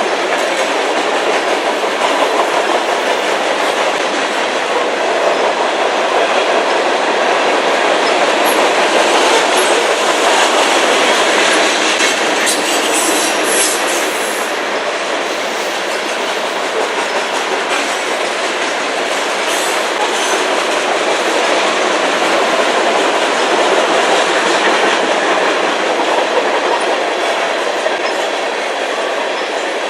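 Freight cars of a CN manifest train rolling past steadily, the wheels clicking over rail joints, with a few brief high wheel squeals about twelve to fifteen seconds in.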